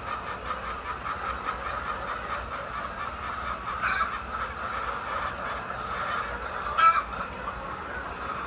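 A large flock of laying hens clucking and chattering continuously. Two brief, louder sharp sounds stand out, about four and seven seconds in.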